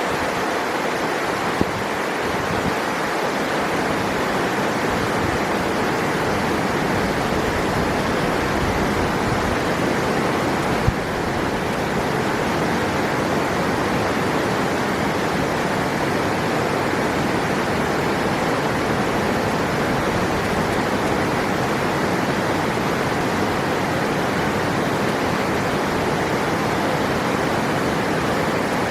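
River water rushing over rocks, a steady, unbroken rush of flowing water.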